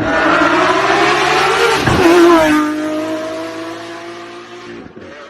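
Lamborghini Aventador SVJ's V12 through a Novitec exhaust, revving up hard with a rising note for about two seconds. The note then drops sharply and holds lower, fading away.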